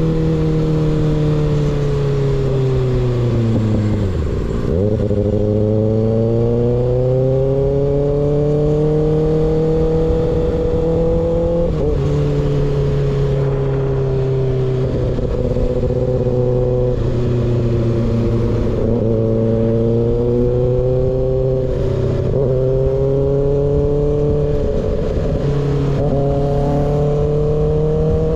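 Kawasaki ZX6R inline-four engine through an unbaffled M4 GP19 slip-on exhaust, on the move. The note drops to low revs about four seconds in as the bike slows, climbs again and then holds, with sudden steps in pitch near twelve and twenty-six seconds at gear changes.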